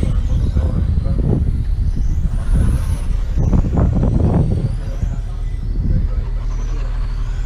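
Racing motorcycles running on the track, their engines swelling louder twice as bikes pass, with rising and falling engine whines over a steady low rumble.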